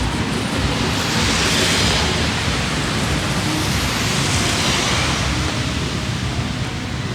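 Steady hiss of light rain, with two brief swells of louder hiss, about a second in and again about four seconds in.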